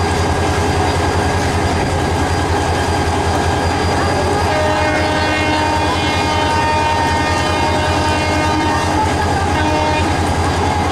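Diesel locomotive engine running with a steady low throb. About four and a half seconds in, a train horn sounds one long multi-tone blast that holds for about five seconds and then stops.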